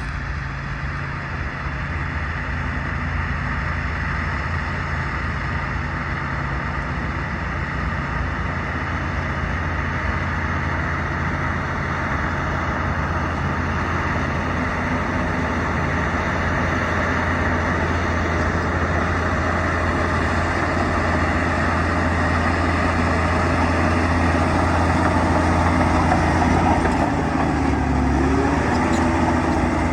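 Bulldozer's diesel engine running steadily under load, slowly growing louder, with a slight change in engine pitch near the end.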